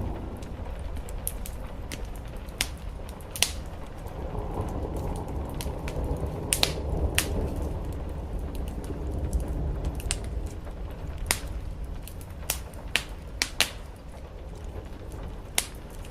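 Wood fire crackling, with irregular sharp pops, some louder than others, over a steady low rumble of rain and distant thunder that swells in the middle.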